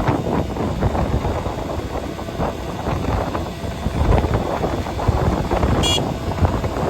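Wind buffeting the microphone over the rumble of road traffic, with one brief high-pitched beep near the end.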